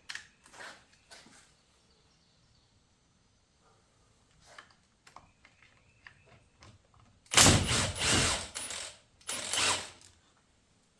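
Hand ratchet wrench clicking in two quick runs, a longer one about seven seconds in and a shorter one just after, as bolts are backed out. Before that there are a few light clinks of tools and parts.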